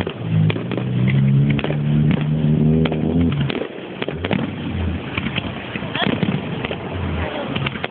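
Fireworks going off: a rapid run of sharp bangs and crackles, with low booms about halfway through and again near the end, over a steady rushing noise. A low steady drone sounds for the first three seconds.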